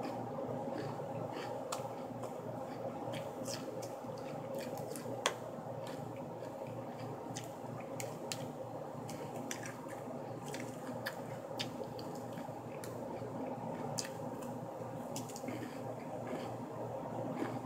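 Close-up chewing of salad with wet mouth sounds, along with light clicks and scrapes of a fork against a ceramic plate. One click about five seconds in is sharper than the rest.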